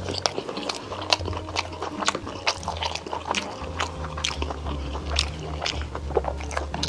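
Close-miked mukbang eating sounds: wet chewing and mouth smacks on mouthfuls of saucy noodles and rice, many short clicks in quick succession. Soft background music with a low bass line plays underneath.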